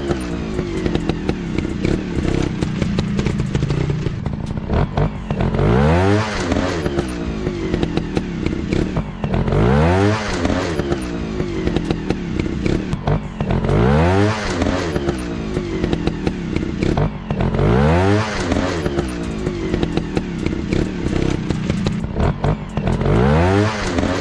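Dirt bike engine revving up and dropping back, the rise and fall repeating evenly about every four seconds over a steady low drone.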